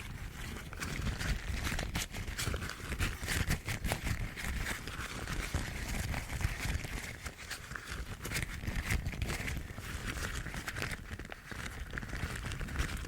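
Yellow rubber household gloves rubbed and scratched close to the microphone, a dense run of small crackles and rustles that goes on without pause.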